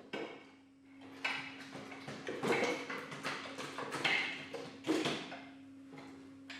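Metal parts and hand tools clattering and scraping in irregular bursts, with the loudest knocks about a second apart, over a steady low hum.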